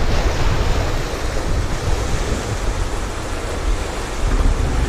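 Steady rushing of river water around the raft, with wind buffeting the microphone as a low rumble.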